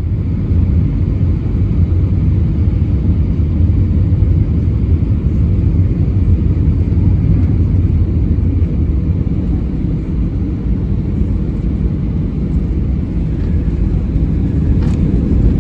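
Airliner cabin noise in flight: a loud, steady low rumble.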